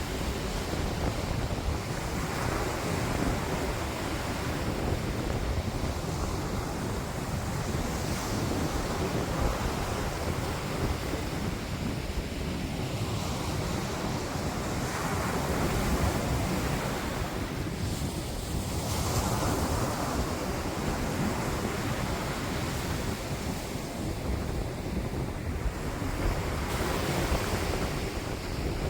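Wind buffeting the phone's microphone: a steady rushing noise, heaviest low down, that swells and eases every few seconds in gusts.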